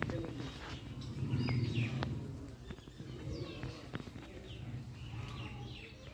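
Birds chirping, many short falling calls, over a low rumble that fades after about two seconds, with a few light clicks.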